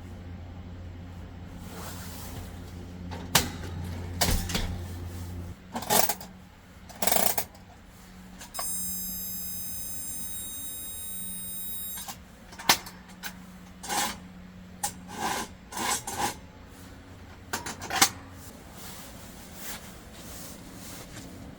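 Camping gear being handled and set down: a series of separate knocks, clicks and clatters, with a steady high-pitched tone lasting about three seconds near the middle.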